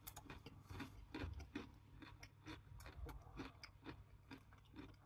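Faint crunching and clicking of a Daim Caramel Latte bar's hard caramel being chewed, irregular small crunches with no speech.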